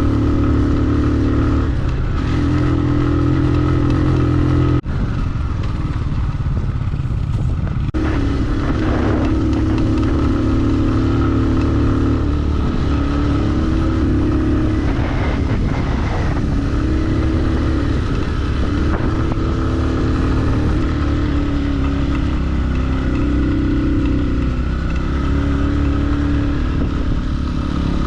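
Motorcycle engine running while riding, its pitch stepping up and down now and then with throttle, with two brief breaks in the sound about five and eight seconds in.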